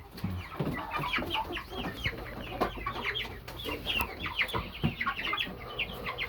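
A mixed flock of chickens, young birds among grown hens and roosters, chirping and clucking constantly with many overlapping short calls.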